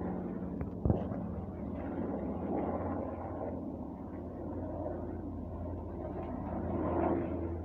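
Sikorsky S-92A helicopter droning steadily in the distance, its turbine and rotor heard as a low hum. A sharp knock about a second in.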